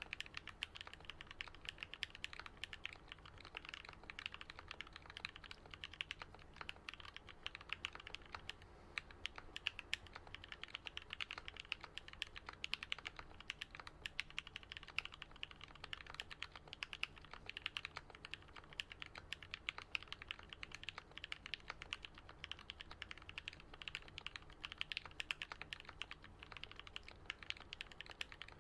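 Steady fast typing on a Switch Couture Alice-layout custom mechanical keyboard with lubed, filmed Gateron Yellow linear switches and lubed Durock stabilizers. It is a dense, continuous run of thocky keystrokes, with scattered louder strokes.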